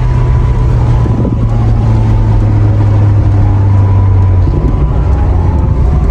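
Maserati GranTurismo's V8 engine and exhaust running steadily while driving, its low drone shifting in pitch a couple of times, about three seconds in and again about four and a half seconds in.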